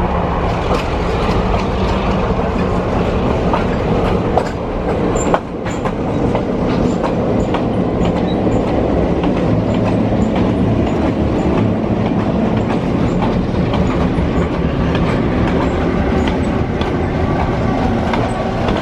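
A train running along the track, heard from aboard: a steady rumble of wheels on rails with scattered clicks and a low hum throughout.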